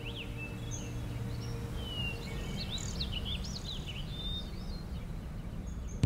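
Songbirds chirping and whistling, many short rising-and-falling notes, busiest around the middle. A low ambient music drone fades out during the first half.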